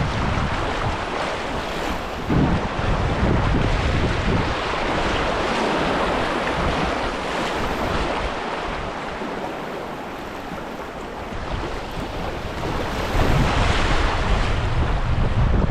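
Wind buffeting the microphone over a steady wash of choppy river water. The low rumbling gusts are strongest a couple of seconds in and again near the end.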